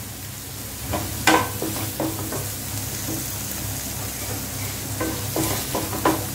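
Chopped onion, green chilli and tomato sizzling in butter in a non-stick kadai as a spatula stirs them, scraping and knocking against the pan. The scrapes come in a cluster about a second in and again near the end over a steady sizzle.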